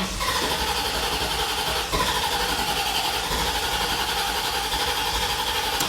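1989 Corvette C4's 5.7-litre V8 being cranked by its starter motor in a steady, even rhythm for about six seconds without catching, then stopping. The car is not starting, a fuel-delivery fault that has already cost it three fuel pumps.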